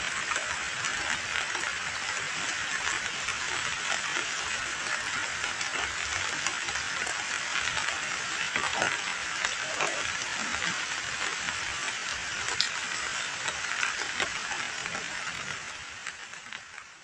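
Heavy rain falling on muddy standing water: a steady, dense patter of drops with sharper splats here and there. It fades away near the end.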